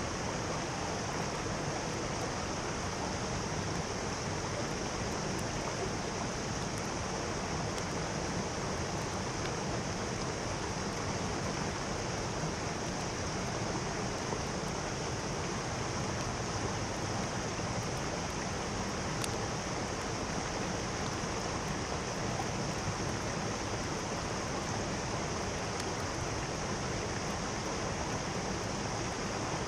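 Mountain stream flowing, a steady rushing of water that holds an even level throughout.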